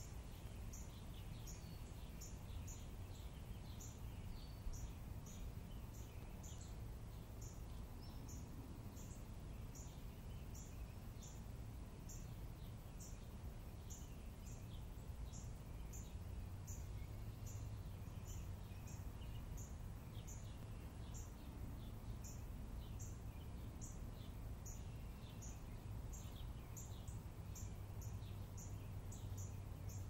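Birds chirping: a high, thin note repeated over and over, a little more than once a second, with fainter chirps below it, over a low steady rumble.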